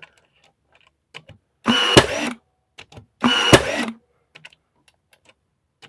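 Two short, loud bursts of a power tool in use on the wood, each just under a second long with a sharp crack inside it, about a second and a half apart.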